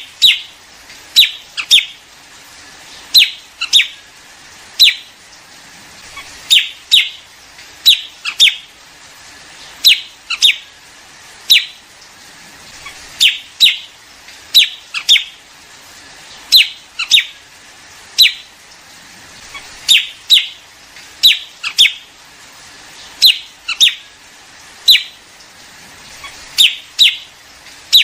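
Liếu điếu bird calls, a recording used by bird trappers to lure a flock: short, sharp, falling chirps, often in twos or threes, repeating every second or two.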